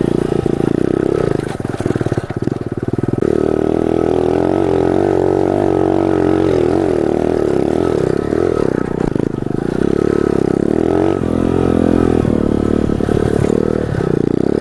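Pit bike's small single-cylinder engine running as it is ridden, easing off about a second and a half in, then picking up again and changing revs through the rest.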